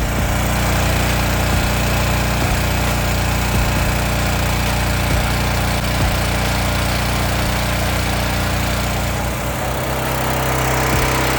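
Gasoline engine of a pressure washer running steadily under load, with a broad hiss over it; its note shifts slightly about ten seconds in.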